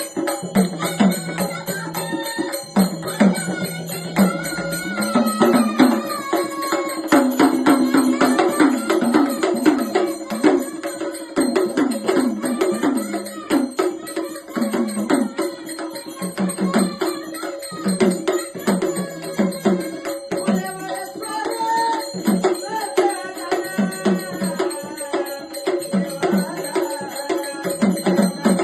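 Marathi Gondhal devotional folk music: a melody over a steady held drone, with fast, dense percussion throughout.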